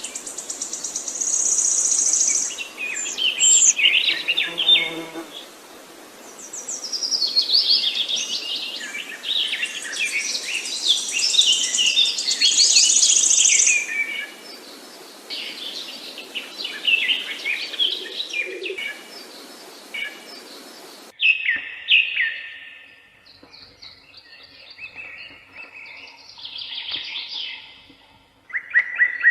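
Many small songbirds chirping and singing at once in a dense chorus of quick high notes over a steady hiss. About two-thirds of the way through, the hiss cuts off suddenly and the chirps become sparser and quieter.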